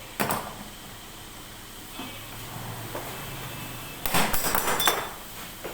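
Sharp knocks of work in a woodworking shop: a single knock about a quarter second in, then a quick flurry of several knocks about four seconds in.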